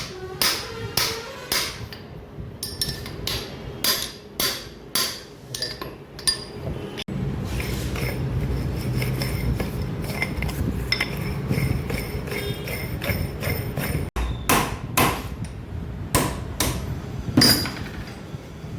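Hammer blows on steel, struck irregularly one to two times a second, each with a short metallic ring. The hammering pauses in the middle for several seconds of steady low machine noise, then resumes with a few more strikes near the end.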